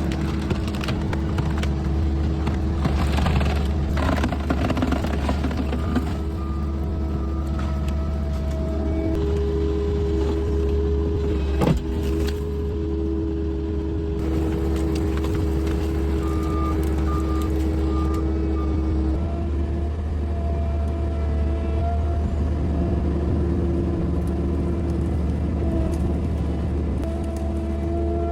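A vehicle engine runs in a steady low drone while under way. There is one sharp knock or bang about twelve seconds in.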